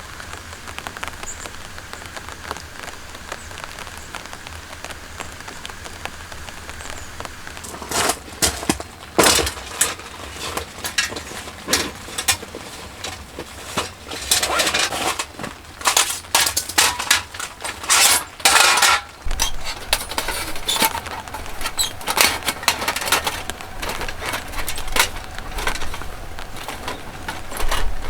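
Steady rain patter, then from about eight seconds in a long run of sharp cracks, snaps and clinks, in irregular loud bursts.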